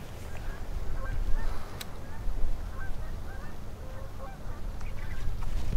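Birds calling repeatedly in short calls, over a steady low rumble.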